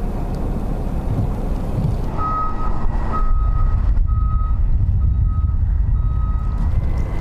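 Heavy truck's reversing alarm beeping about once a second, five beeps starting about two seconds in, over the low rumble of its engine.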